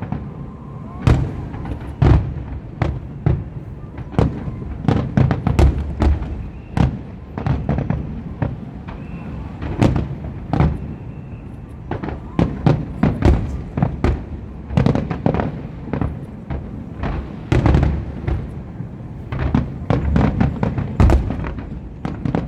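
Aerial fireworks display: an irregular barrage of shell bursts, several a second, booming and cracking over a continuous deep rumble.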